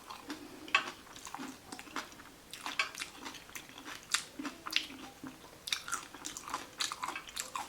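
Close-up chewing and biting with irregular crunches: a person eating a vegan veggie taco.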